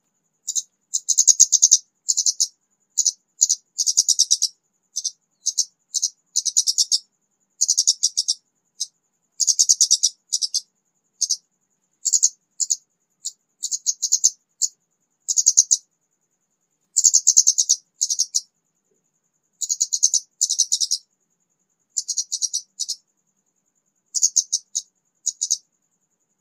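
Orange-headed thrush (kemade) singing: short bursts of rapid, high-pitched notes, each about half a second to a second long, separated by brief pauses. It is an untrained young bird that has just begun to sing.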